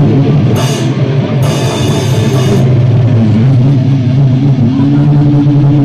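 Rock band playing live in rehearsal, with drum kit, electric guitar and bass. Cymbal crashes in the first couple of seconds, then a bent guitar note that settles into a long held chord over a steady bass note.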